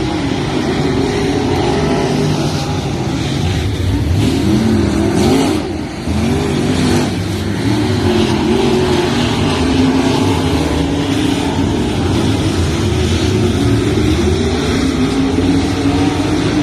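Race car engines running hard at speed, their pitch rising and falling as they accelerate and lift off, with a brief drop about six seconds in.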